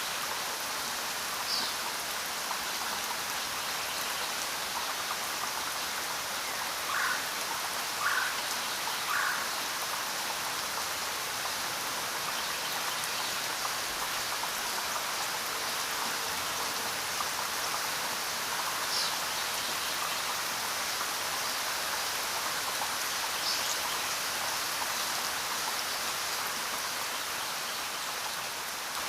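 Steady rain falling, an even hiss of many drops. About seven seconds in, three short louder sounds come about a second apart.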